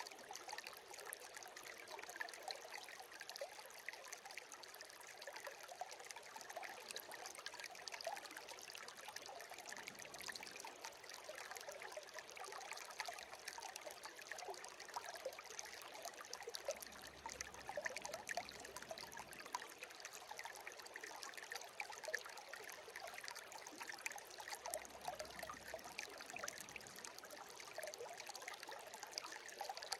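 A shallow stream babbling and trickling steadily over stones, an even splashing rush with fine bubbling detail.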